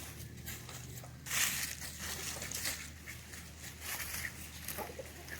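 Scratchy rustling and crunching, with a louder rush about a second and a half in and a few faint chicken clucks.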